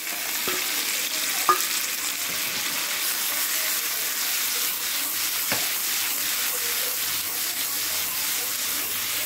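Raw mango pieces and green chillies sizzling in hot oil in a steel pan as they are tipped in and stirred, a steady hiss. Two sharp metal clinks against the pan, about one and a half seconds in and again about five and a half seconds in.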